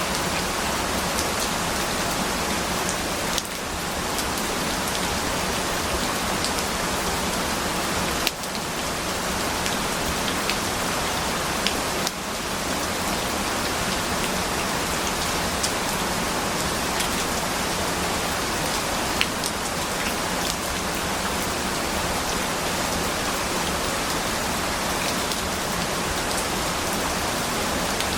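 Steady rain falling on a surface, an even hiss with scattered individual drop ticks. The level dips briefly three times, about three, eight and twelve seconds in.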